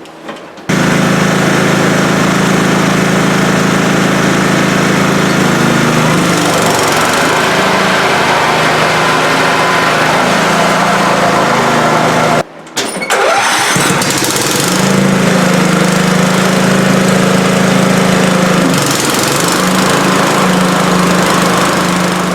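Scotts 1642/1742 riding mower engine running loudly, a test run after the deck's spindles, pulleys and belt were replaced, with the mower deck to be engaged. It comes in abruptly just under a second in, its pitch shifts up and down a few times, and it drops out briefly about halfway before running on.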